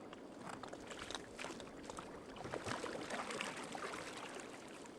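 Water splashing and trickling around a canoe on the river, in irregular small splashes that grow a little louder about halfway through.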